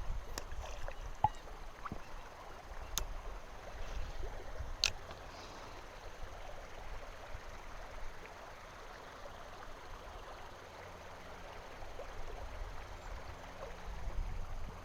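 Steady rush of flowing river water, with a few short sharp clicks, the two clearest about three and five seconds in.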